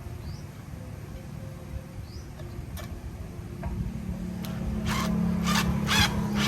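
Repeated rasping strokes of hand work on a part, about three a second, starting a little after the middle, over a low steady hum.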